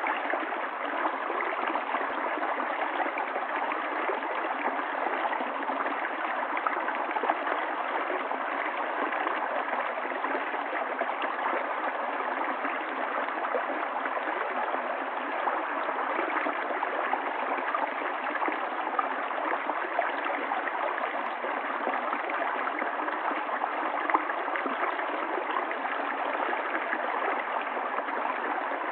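Running water of a stream, flowing steadily and evenly, without deep rumble or high hiss.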